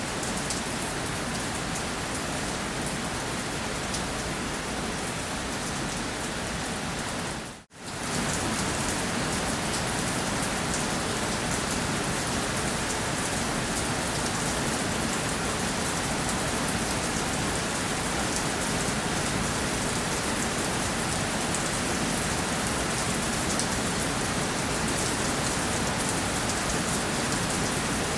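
Steady rain falling on a surface, an even dense hiss. About eight seconds in it briefly drops out to near silence and comes back slightly louder, like a splice between two rain recordings.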